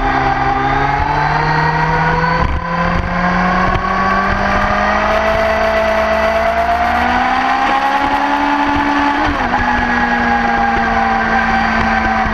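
Sport motorcycle engine pulling hard under acceleration, its pitch climbing slowly for several seconds, then a quick gear change about nine seconds in, after which it runs steadily at high revs.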